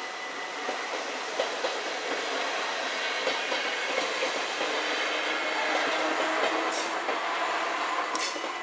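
NS Sprinter electric multiple unit passing over a level crossing: wheels clacking over the rail joints with a few sharp clicks, the running noise building to its loudest in the second half and easing near the end as the last car clears. The crossing's warning bell rings steadily underneath.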